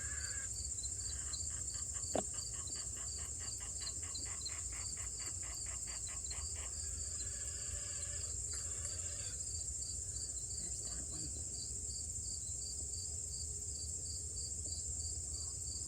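Insects calling: a continuous high-pitched buzz with short chirps repeating about three times a second. A faster pulsing rattle joins in for the first few seconds, and there is a single click about two seconds in.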